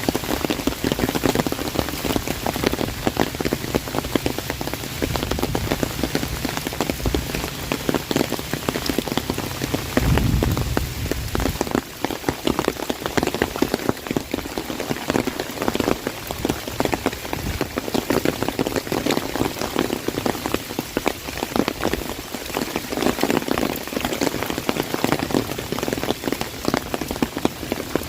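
Heavy rain drumming on an umbrella: a dense, steady patter of drops striking the canopy. A low rumble runs beneath it through the first part and stops partway through.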